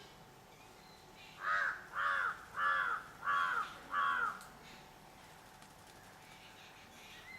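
Rufous treepie (Indian treepie) calling: five calls in quick succession, about half a second apart, starting about a second and a half in.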